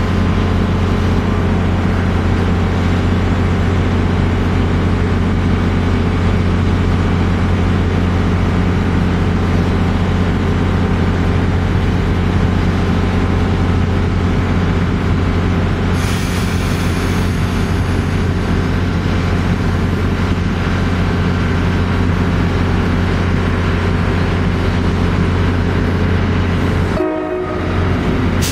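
Passenger train moving through the station: a steady low drone, with a hissing rush joining it about halfway through and a brief drop near the end.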